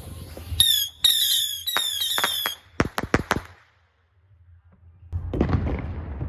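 Fireworks: a run of short, high whistles falling in pitch, then a quick string of sharp cracks, a brief lull, and distant booms and rumble about five seconds in.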